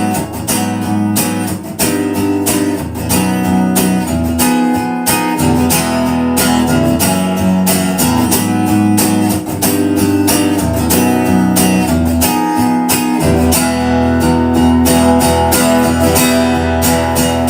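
Guitar playing chords in an instrumental break of a slow song, plucked and strummed in a steady rhythm with no singing.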